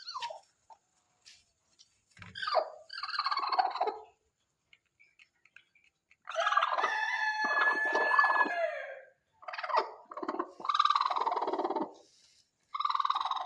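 A chicken calling loudly about five times, in long pitched calls; the longest lasts about three seconds.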